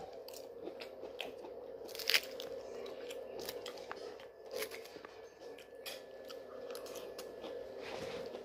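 Close-up chewing of roasted cauliflower: wet crunching and small sharp clicks of the mouth, with one louder crunch about two seconds in, over a steady low hum.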